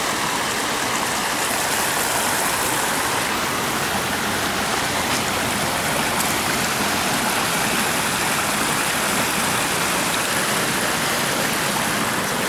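Fast-flowing floodwater in a storm-swollen creek, rushing steadily and loudly without a break.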